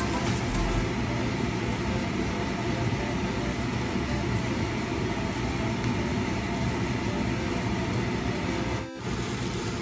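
Diced onions sizzling in oil in a nonstick frying pan while a spatula stirs them, a steady hiss over a low rumble. The sound drops out briefly near the end.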